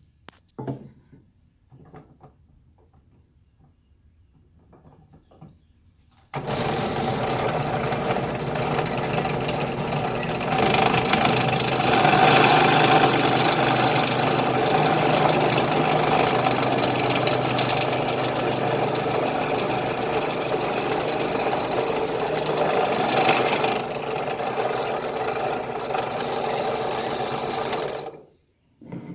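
An electric drill runs steadily for about twenty seconds, boring out the hole in a wooden chair leg to take a larger threaded insert. A few light handling knocks come before it starts, and it stops near the end.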